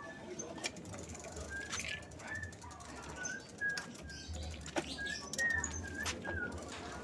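Small birds chirping in short, repeated high chirps, with a few scattered sharp clicks.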